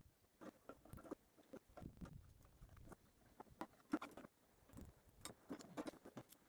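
Faint, irregular clicks and knocks of hand tools and metal parts being handled while unbolting a quad bike's battery box, with one sharper knock about four seconds in.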